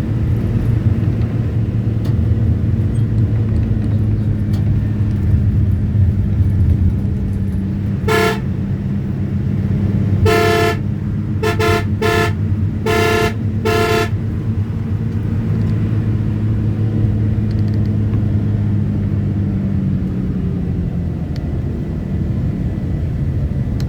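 Motor vehicle engine running steadily, with a horn honked about six times in quick succession a third of the way in, one of the honks longer than the rest. The engine note drops slightly near the end.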